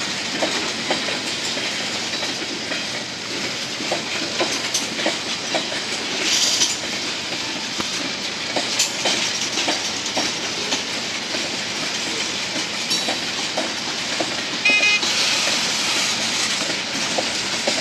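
Freight train cars rolling past at low speed, their steel wheels clicking over rail joints in a steady clickety-clack, with a brief high squeal about fifteen seconds in.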